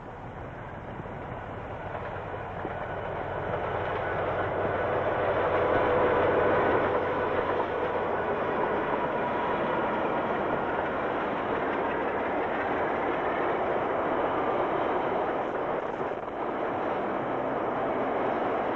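Freight train hauled by a DX-class diesel-electric locomotive passing by. It grows louder over the first few seconds and peaks about six seconds in, then the wagons rumble past steadily.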